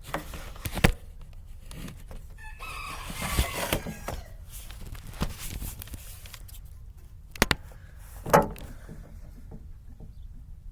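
A rooster crows once in the background, one drawn-out call of about a second and a half a few seconds in. A few sharp knocks, the loudest sounds, come about a second in and twice more near the end.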